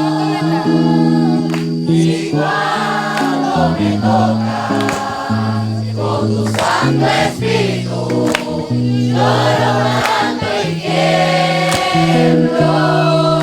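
A Christian worship song in Spanish, sung by a group of voices over held low instrumental notes that change chord every second or two.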